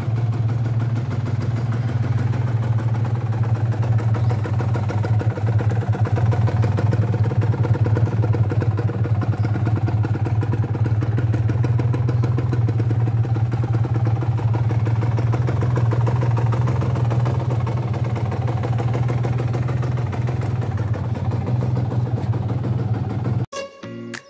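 2009 Kawasaki Ninja 150 RR's single-cylinder two-stroke engine idling steadily, with no revving. Near the end it cuts off suddenly and a short music jingle begins.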